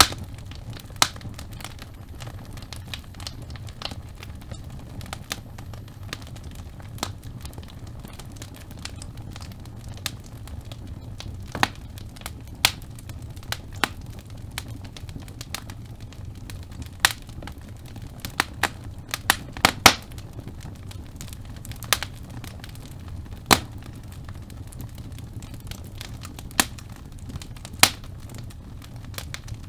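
Wood fire burning in a fireplace: sharp, irregular pops and crackles from the logs, a cluster of louder snaps in the middle, over a steady low rumble of the flames.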